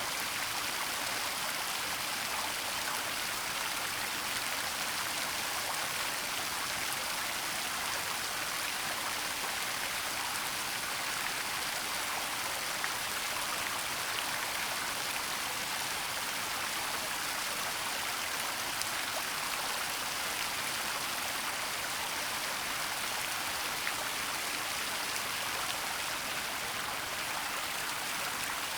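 Waterfall and stream water rushing in a steady, even hiss, with faint scattered splashes.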